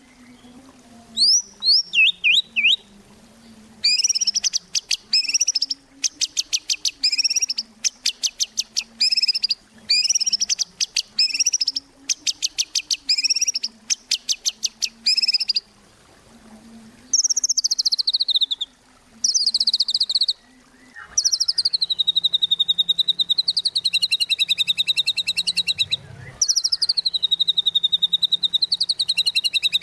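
White-rumped shama (murai batu) singing energetically: short series of rapid, sharp repeated high notes with pauses between, then longer unbroken rattling trills toward the end.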